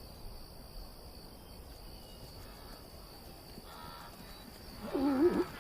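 Night insect chorus: crickets trilling steadily in a thin, high band. Near the end a much louder call with a wavering, sliding pitch cuts in.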